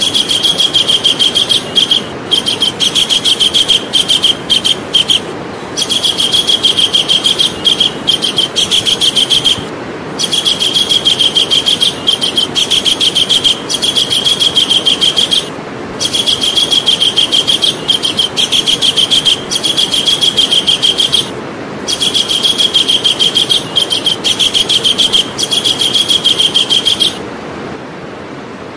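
Javan kingfisher calling: loud rapid chattering runs of repeated high notes, each run lasting a few seconds with brief pauses between, about six runs in all. A steady hiss lies underneath.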